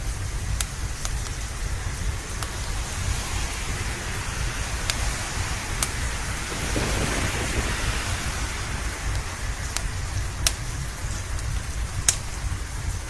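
Steady rain with a low, constant rumble underneath, and a roll of thunder that swells and fades in the middle. A few sharp pops stand out, like a fireplace crackling.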